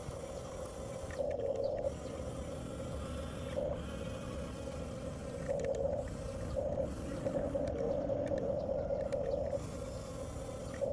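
1/14 scale Huina RC bulldozer's electric motors and gearbox whining in spurts as the machine is driven on and off, over a steady rough low noise.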